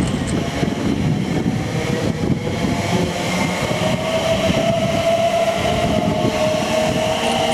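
A train moving along the platform: a steady loud rumble of wheels on rail, with a motor whine that rises slightly in pitch in the second half.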